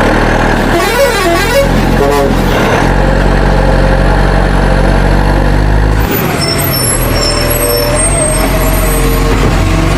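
Heavy-vehicle engine drone that changes abruptly about three and six seconds in, with a wavering up-and-down tone near the start.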